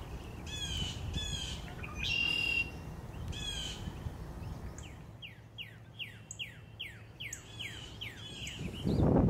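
High bird calls: a few short calls, then a quick run of falling chirps, about two or three a second. A burst of low noise comes near the end.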